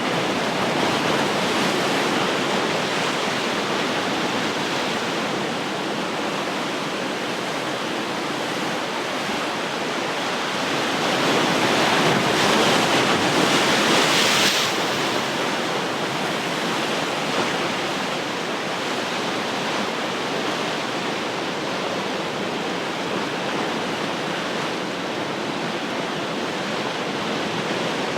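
Ocean surf: a steady wash of breaking waves, with one wave swelling louder about halfway through and then falling back.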